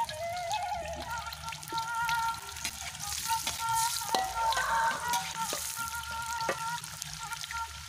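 Chopped red chillies and aromatics sizzling in hot oil in an aluminium wok, with a metal spatula clacking and scraping against the pan as they are stirred. The sizzling is loudest around the middle.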